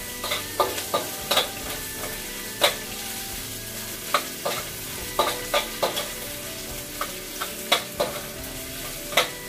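Sliced ginger sizzling in hot oil in a stainless-steel wok, with a metal spatula clinking and scraping against the wok at irregular moments, about once or twice a second, as it is stir-fried.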